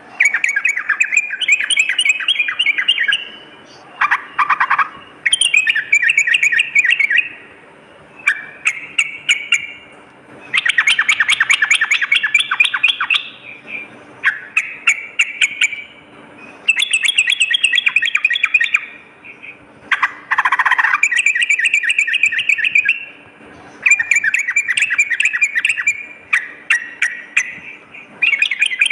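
Trucukan (yellow-vented bulbul) singing: repeated bouts of fast, bubbling chattering notes, each bout lasting one to three seconds with short pauses between them, plus a couple of lower, shorter calls.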